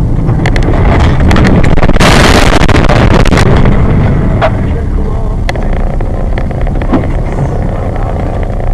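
Car in motion recorded by a dashcam: steady low road and engine rumble, with a loud burst of rapid cracking and clattering about two seconds in that lasts over a second, then scattered single knocks.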